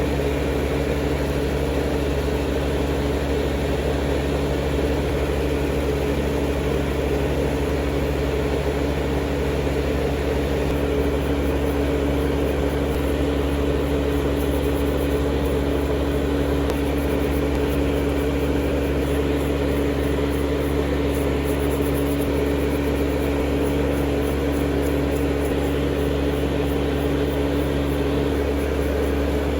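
Steady electric motor hum of manicure equipment: a constant low drone with a few steady tones that holds unchanged throughout.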